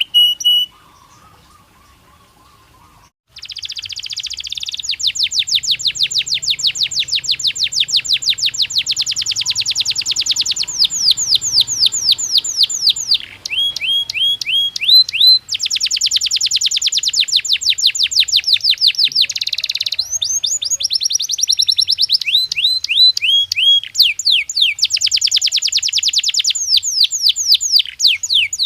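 Domestic canary singing: after a brief pause it launches, about three seconds in, into long rolling phrases of rapid repeated trill notes and quick falling sweeps, with a couple of short breaks between phrases.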